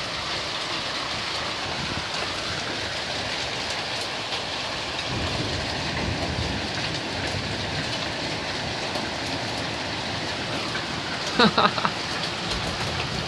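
Heavy storm rain pouring steadily, a dense even hiss of drops hitting surfaces. A short voice cuts in briefly near the end.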